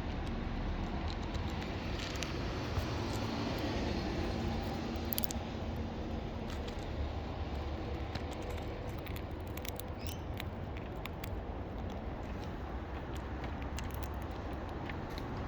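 Steady outdoor background noise with a low rumble, broken by a few faint scattered clicks.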